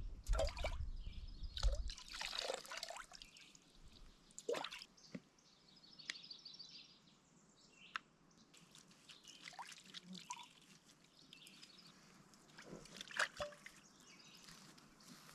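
Water dripping and trickling softly in scattered drops, with a low rumble during the first two seconds.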